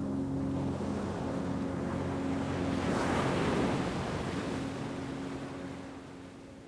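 An ocean wave washing in: a rush of surf that swells to its loudest about three seconds in and then fades away. Under it runs a steady low hum.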